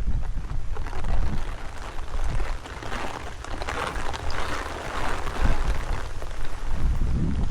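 Heavy rain falling in a dense patter of drops, with gusting wind buffeting the microphone in a rumble that swells and dips.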